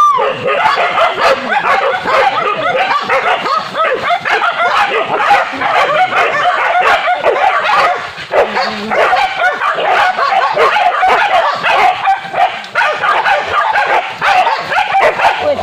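A pack of hunting dogs barking and yelping continuously, many voices overlapping, as they bay a cornered wild boar.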